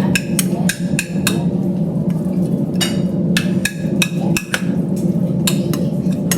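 A spoon knocking and scraping against a frying pan as scrambled eggs with cheese are stirred, in irregular sharp clicks, over a steady low hum.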